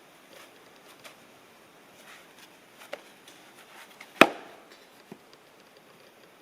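Small clicks and handling knocks of camp gear, with one sharp, loud knock a little after four seconds that rings briefly.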